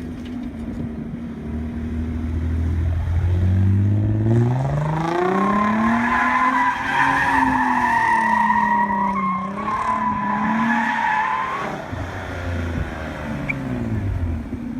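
Nissan 300ZX (Z32) V6 engine revving up, then its tyres squealing steadily for about seven seconds through a drift. The engine pitch then drops back down near the end.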